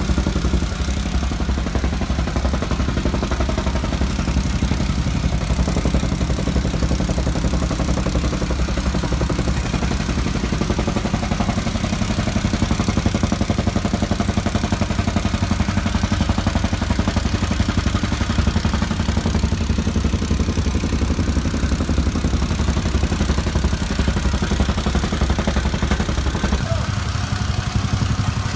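Gas-powered soil compactor running at a steady fast pulse as it packs backfilled dirt in a trench. Near the end the engine note shifts lower.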